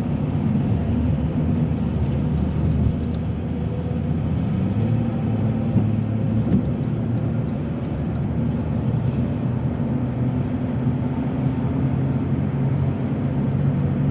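Steady engine and road noise of a car heard from inside the cabin while driving: a continuous low drone.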